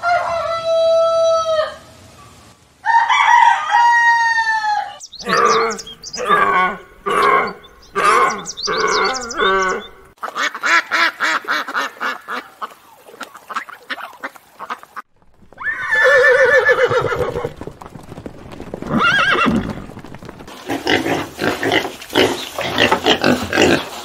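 A rooster crows and hens cluck in quick repeated calls. About halfway through, a flock of white domestic geese honks and cackles.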